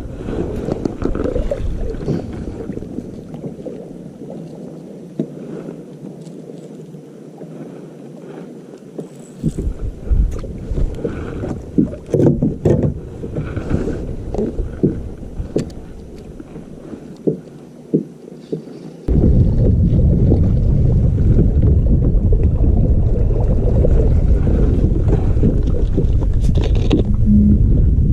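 Sounds of a fishing kayak on the water: a low rumbling haze with wind on the microphone, a run of scattered knocks and clicks of gear against the hull in the middle, and then, about two-thirds through, a sudden step up to a steady, louder low rumble.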